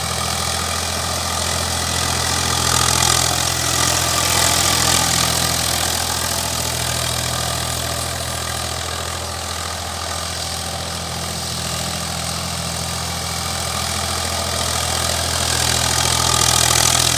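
Agri King tractor engine running steadily at an even speed, with a broad hiss on top that swells a little twice.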